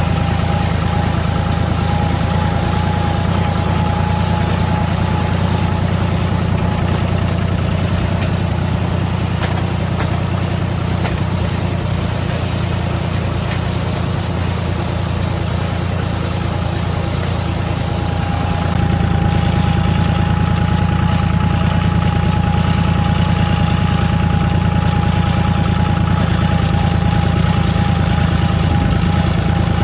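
Farm tractor engine running steadily, with a thin steady whine above it; the sound gets a little louder about nineteen seconds in.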